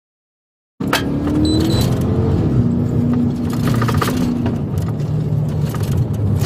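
Silence, then a patrol car's engine and road noise heard inside the moving cruiser cut in abruptly, about a second in, and run steadily with a low rumble and a few clicks.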